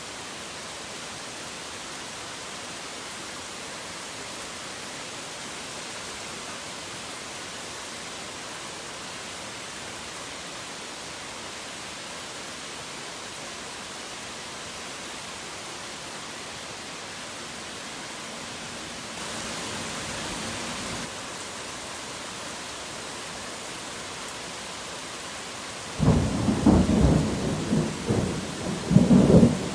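Steady rain hiss. Near the end a sudden, loud, crackling rumble of thunder breaks in and swells twice.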